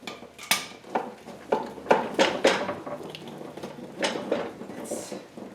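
A string of irregular metallic clanks and knocks, about a dozen, as the upper oil pan of a KA24DE engine is knocked and pried at to work it loose from the block.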